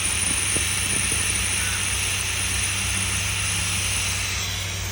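A 1984 car's engine running at a steady, too-high idle while warming up after its first start in over a year, under a steady hiss.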